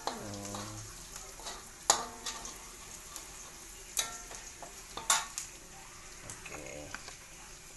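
Onion and garlic sizzling in hot oil in a frying pan, a steady hiss, with a cooking utensil knocking sharply against the pan about three times.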